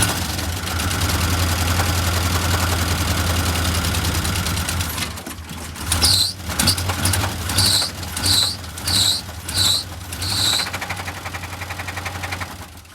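Blown small-block Chevy V8 running cold just after starting, with a knock that the owner takes for a rod knock. About halfway through, five short high squeals come in a row about every 0.7 s.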